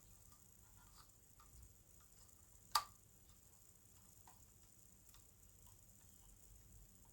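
Faint small taps and ticks of plastic model parts being handled, with one sharp click a little under three seconds in as a small plastic part is pressed onto its locating pins.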